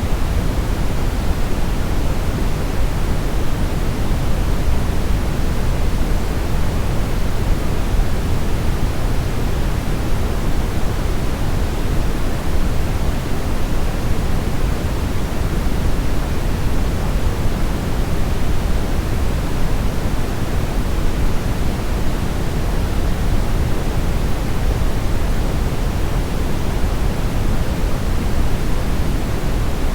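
Brown noise: a steady, even hiss weighted heavily toward the deep low end, with no change or events.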